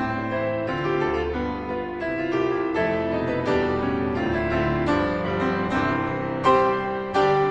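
Solo piano playing the interlude between the song's verses, a stream of chords and moving notes with two loud accented chords near the end.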